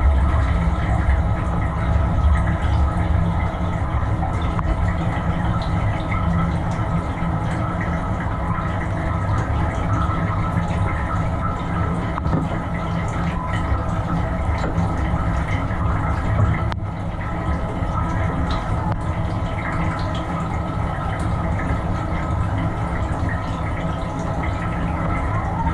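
GE GDT655SSJ0SS dishwasher running a wash cycle: the circulation pump motor hums steadily while water sprays and sloshes inside the tub. This is the machine whose lower spray arm is not spinning, a fault the owner traced to the orange valve ball in the arm's nozzle sticking in built-up gunk.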